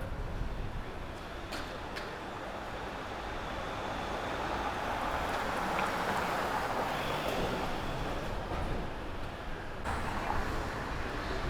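Street traffic noise: a vehicle passing, swelling up to a peak about halfway through and then easing off, with a few faint clicks.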